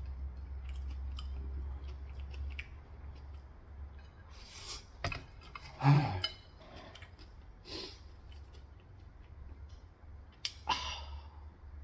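Close-up eating noises: scattered chewing clicks and smacks with a few louder wet bursts, and a short voiced murmur about six seconds in.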